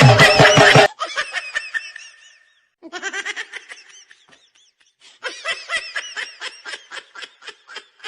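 High-pitched laughter in three quick bouts of rapid 'ha-ha' pulses, after music cuts off about a second in.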